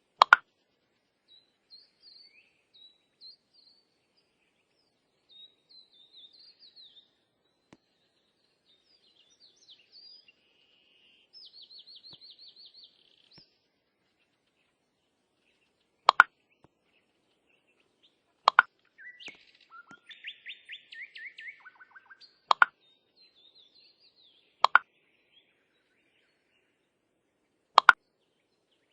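Small birds chirping and trilling in short, scattered phrases, with a rapid trill around the middle. Six sharp, loud clicks stand out, one at the very start and five more spread over the second half.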